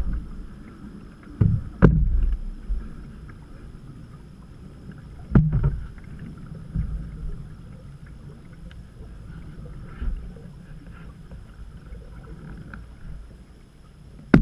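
Canoe on the move: a steady low rumble of water and paddling, broken by a few sharp knocks on the boat, about two seconds in, about five seconds in and again at the end.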